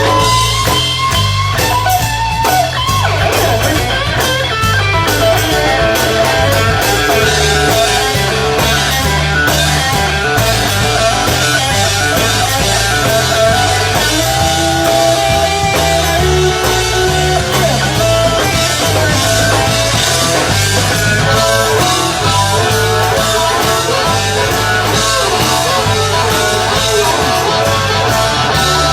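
Rock band playing an instrumental passage: guitar lines over bass and a drum kit keeping a steady beat.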